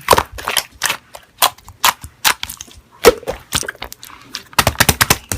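Slime being squeezed and poked by hand, making a run of sharp, irregular pops and clicks at about two or three a second, with a quick cluster of pops near the end.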